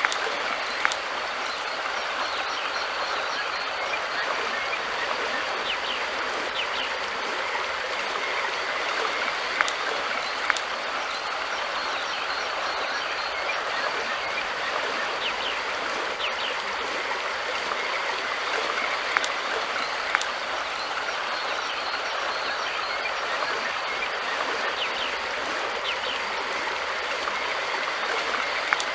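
River water flowing in a steady rush, with a few sharp clicks here and there.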